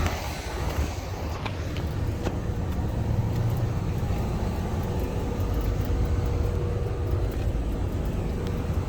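Bryant Legacy Line packaged air-conditioning unit running: a steady low hum with the rush of its fan, and a faint steady tone joining about halfway through.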